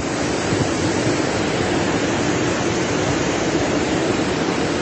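Floodwater rushing past in a steady, loud torrent.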